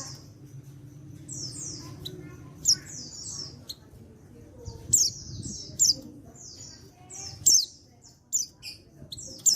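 Male white-eye (pleci) calling: a string of short, high, down-slurred chirps, some in quick clusters, with the loudest notes about 3, 5, 6 and 7.5 seconds in.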